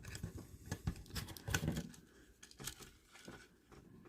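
Faint small clicks and rustling as a tiny LiPo battery and its wires are pushed into the plastic battery compartment of a micro RC car.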